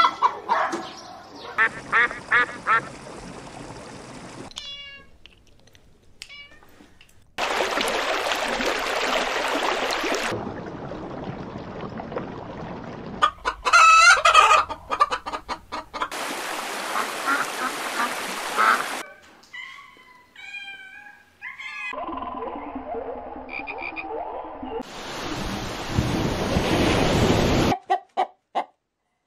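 A run of short clips of ducks and geese calling, one after another, each starting and stopping abruptly; some calls are repeated in quick series and some sit over a loud rushing background.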